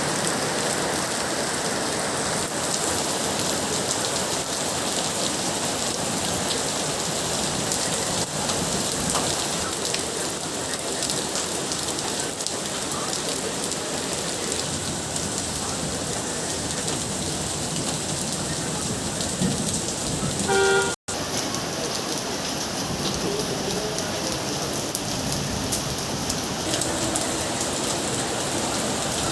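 Rain falling steadily on surfaces, an even hiss of drops. About two-thirds of the way through, a short pitched tone sounds. The sound then cuts out for an instant before the rain carries on.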